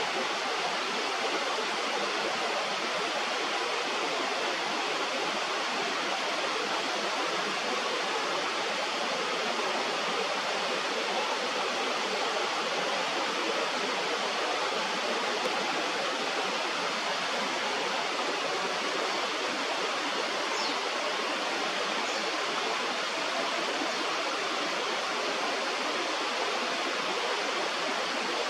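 Steady rush of flowing river water, with two faint, short high chirps about three quarters of the way through.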